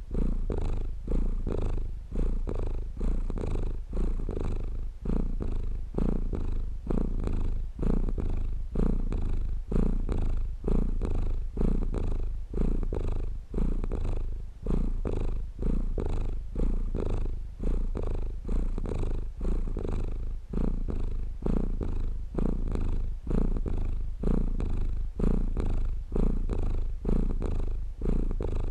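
A cat purring close to the microphone, a low rough rumble that swells and eases in a steady rhythm with each breath, roughly once a second.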